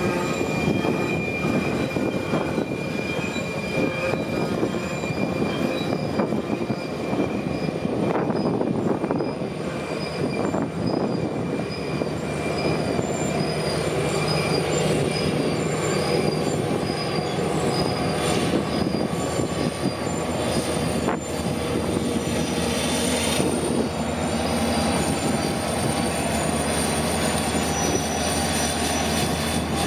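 Loaded coal hoppers rolling past, their steel wheels squealing on the curve in thin, wavering high tones. In the last few seconds a Union Pacific diesel locomotive at the rear of the train passes with a steady low engine drone.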